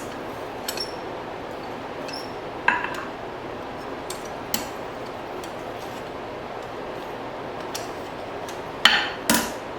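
Light metal clinks of steel on the anvil over a steady rushing noise, then two sharp hammer blows on the forging near the end, ringing briefly.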